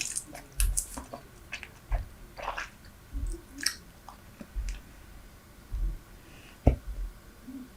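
Super Bubble bubble gum being chewed close to the microphone, with wet smacking clicks and a soft low thump about once a second. One sharper click comes near the end.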